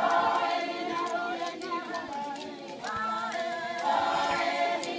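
A group of voices singing together, unaccompanied, with long held notes.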